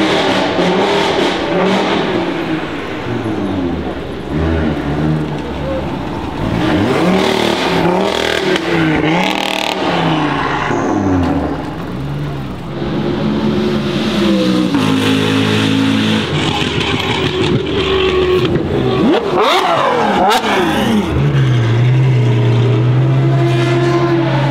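Supercar engines revving: a string of throttle blips that rise and fall in pitch, a sharp climb and drop about twenty seconds in, then a steady held engine note near the end.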